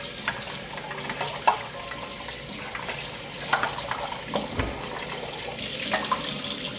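Kitchen tap running into a sink, with scattered clinks and scrapes of a bowl and utensils and a low thump about four and a half seconds in.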